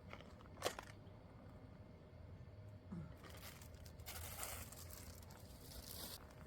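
A single sharp click just under a second in, then about three seconds of dry rustling and crinkling, as of something being handled.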